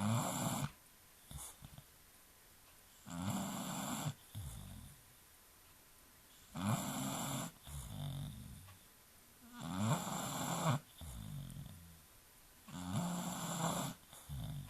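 A British bulldog snoring in its sleep, about one snore every three seconds. Each loud snore is followed by a softer, shorter breath.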